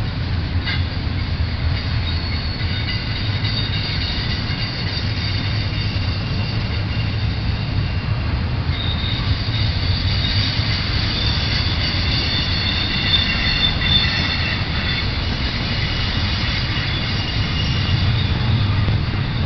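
Double-stack intermodal well cars rolling past with a steady low rumble, and high-pitched wheel squeal from the steel wheels on the rail, strongest in the middle stretch.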